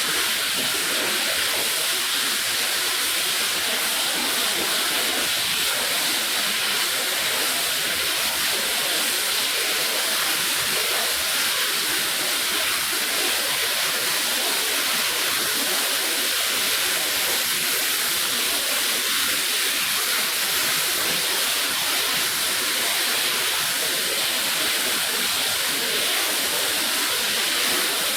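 Steady hiss of a pressure-washer water jet spraying onto a wet rug, running without a break.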